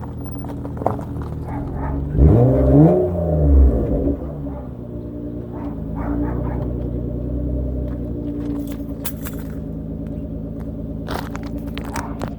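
2013 Nissan Altima's 3.5-litre V6 idling through a muffler-deleted exhaust, blipped once about two seconds in, the pitch rising and dropping back to a steady idle.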